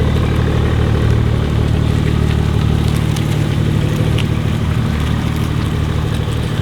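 Stage 2 tuned BMW 540i's engine running steadily with a low, even exhaust note and no revving.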